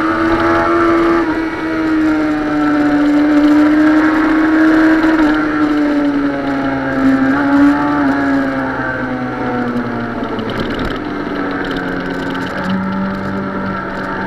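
Suzuki sport motorcycle's engine running while riding, its note rising and falling gently with the throttle, then settling to a lower, steady note about twelve seconds in.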